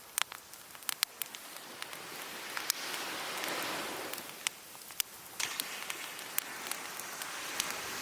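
Wood fire crackling with many sharp pops, over surf washing onto the beach: a wave swells in about two and a half seconds in, fades, and another builds near the end.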